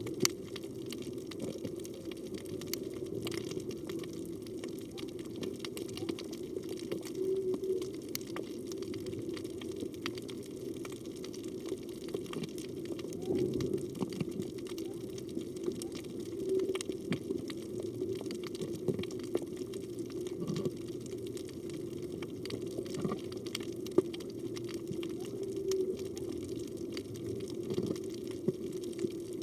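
Underwater reef ambience heard through a camera housing: a steady low hum with a constant crackle of sharp clicks, and a few soft, brief low sounds here and there.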